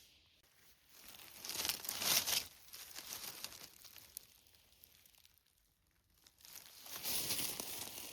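Dry leaves and twigs on the forest floor rustling and crunching, in two spells: one about a second and a half in, and a longer one near the end.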